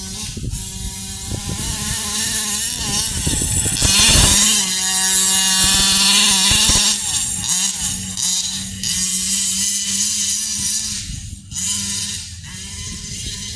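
45cc two-stroke engine of a 1/5-scale RC Baja truck, running under throttle as it is driven, its pitch rising and falling. It is loudest about four to seven seconds in.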